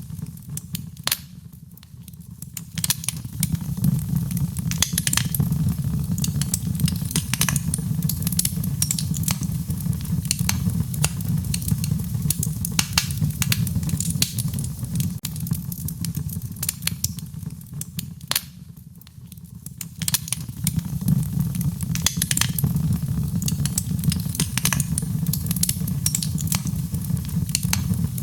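Wood fire crackling, with frequent sharp pops and snaps over a steady low rumble of the flames. The sound thins out briefly about two seconds in and again near the nineteen-second mark.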